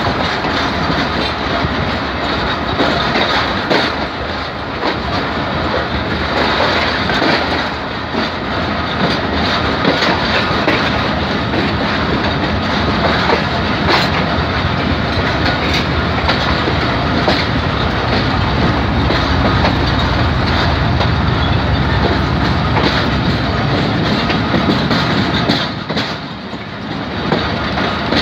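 Passenger train running, heard from a coach window: a steady rumble with wheels clicking over the rail joints and points. The noise drops briefly near the end.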